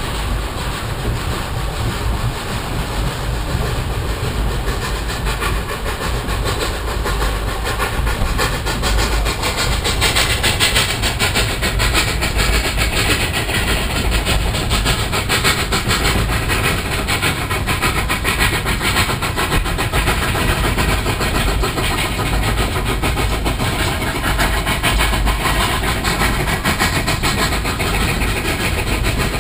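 Narrow-gauge train running along the track: a steady rumble with a fast rail clatter, the clatter growing louder and brighter about ten seconds in.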